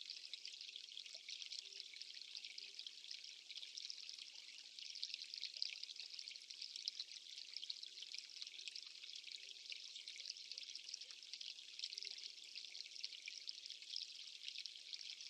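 Faint, steady rushing of water, an even hiss with a fine crackling texture that does not change.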